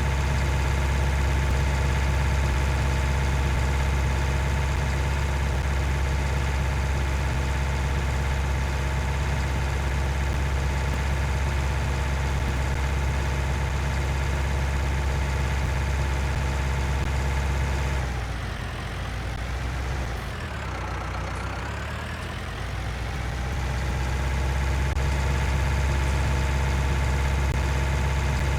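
Tractor's diesel engine running steadily. About eighteen seconds in it gets quieter and its pitch sags, then climbs back to the earlier speed over the next few seconds.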